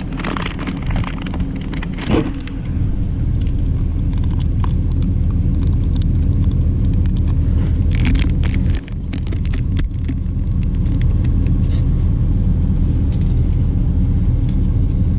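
Steady low rumble of an idling diesel truck engine, with scattered clicks and plastic rattles from hands handling the oil filter and its plastic packaging.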